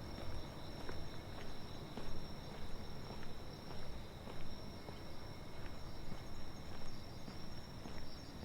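Night crickets trilling in a steady high-pitched chorus, with a person's footsteps about two a second.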